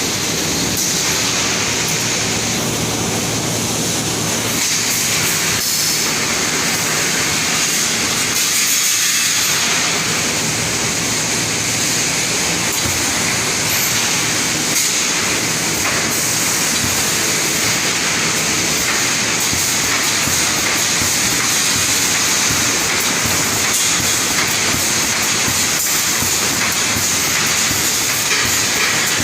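Steel rebar wire mesh welding machine running: a steady, even mechanical noise with a high hiss over it.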